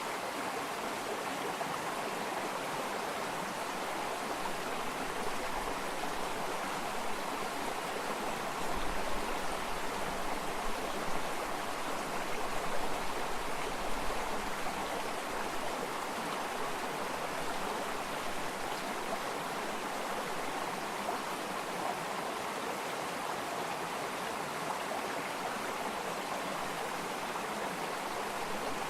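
Stream water flowing steadily with an even rushing sound, with a faint low rumble in the middle.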